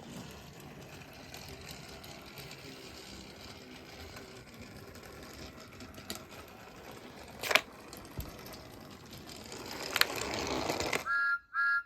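Small electric motor of a battery-powered toy Thomas engine whirring steadily as it runs along plastic track, with a couple of sharp clicks. Near the end come two short electronic toots.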